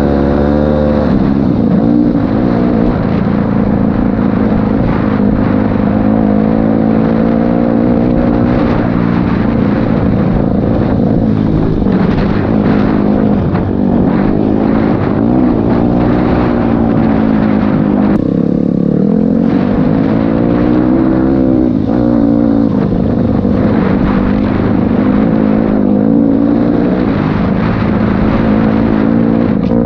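Honda CRF250L dirt bike's single-cylinder four-stroke engine running under way, its pitch rising and falling repeatedly as the throttle opens and closes through the gears.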